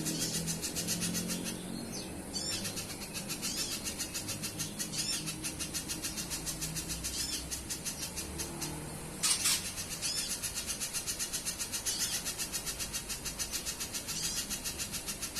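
A pijantung pisang spiderhunter sings a fast, even stream of high, sharp chips, with a short looping whistled note repeated about every second. About nine seconds in there is a brief louder rush of noise.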